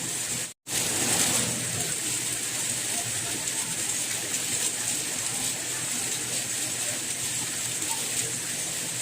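Steady rain falling, an even hiss of drops with no single impacts standing out. About half a second in it cuts out completely for a split second, then resumes.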